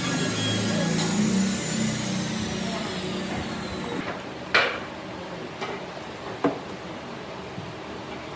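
Power tool running with a high whine that falls in pitch as it winds down, cutting off about four seconds in. Three sharp knocks follow.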